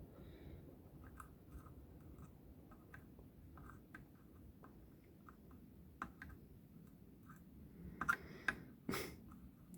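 Faint, scattered small clicks and taps of tools and component leads against a circuit board during hand soldering of a loudspeaker crossover, with a few sharper clicks about eight and nine seconds in.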